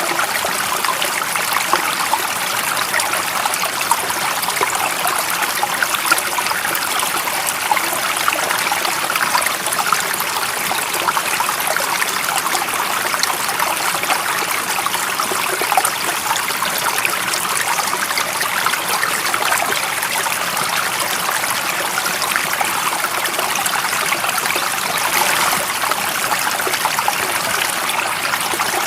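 Running water of a stream, a steady even rush with small trickling splashes, unchanging throughout.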